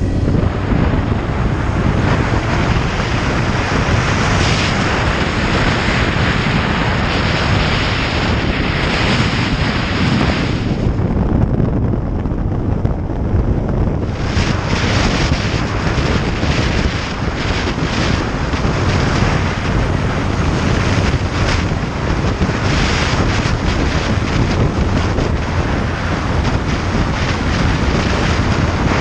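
Wind buffeting the microphone on a moving motorcycle, over the steady low drone of the motorcycle's engine. The hiss of the wind eases for a few seconds about halfway through, then returns.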